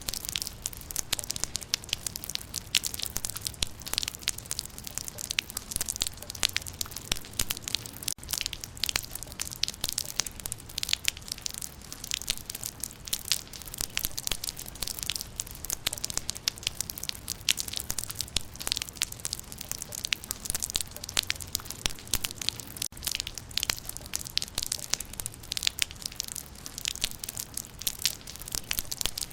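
Rain falling on leaves: a steady patter of dense, irregular drops tapping on foliage.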